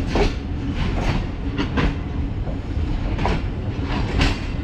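Passenger train rolling along the track, its wheels clattering over rail joints in irregular clacks over a steady low rumble.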